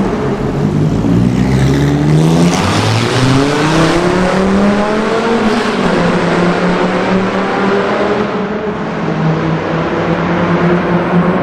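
Viper V10 with a custom exhaust that uses the crossover pipes and has no muffler, accelerating in a tunnel: the engine note climbs, drops at a shift about two and a half seconds in, climbs again, then holds a steady note from about six seconds in.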